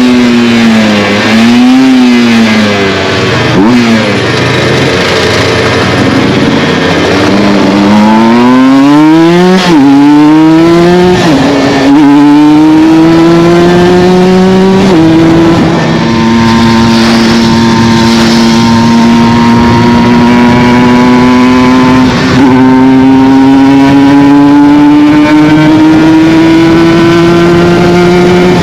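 Aprilia RS 125 two-stroke single with an Arrow full exhaust under hard acceleration: the revs dip and rise twice, then climb steeply with sudden drops at each upshift, ending in a long, slow rise in a high gear.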